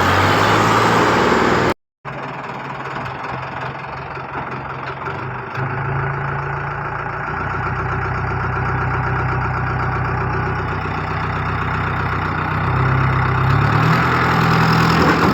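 A vehicle engine running steadily. It rises in pitch about six seconds in and again near the end, with a brief dropout to silence about two seconds in.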